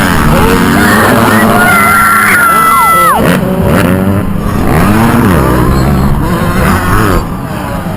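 Several motocross bikes' engines revving up and down at racing pace, their pitches rising and falling over one another. About three seconds in, one engine's high rev drops off sharply. The sound eases slightly near the end.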